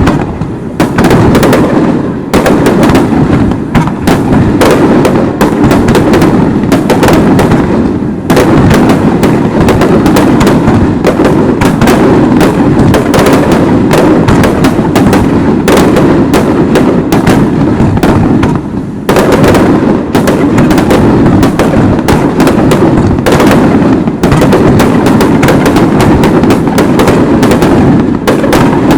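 Fireworks display in a dense rapid barrage: shells bursting one after another in overlapping bangs and crackle, almost without a break. There are brief lulls about eight seconds and nineteen seconds in.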